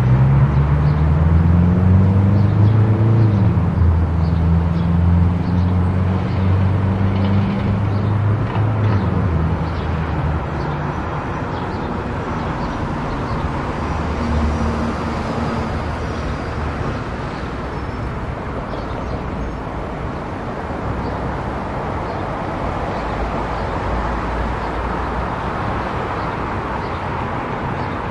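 Car driving on an expressway: steady tyre and road noise. Over the first ten seconds a low engine hum rises and falls in pitch, then fades and leaves the road noise.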